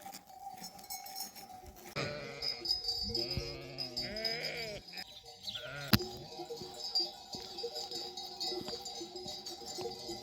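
Sheep bells clanking steadily in a grazing flock, with sheep bleating several times in the first half and a single sharp click about six seconds in.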